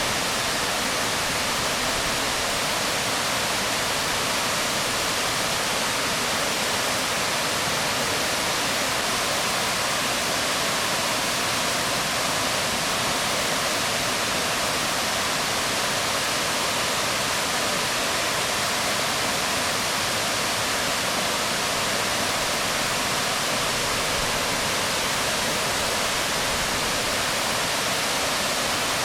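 Waterfall falling onto rocks: a steady, even rush of water that does not change.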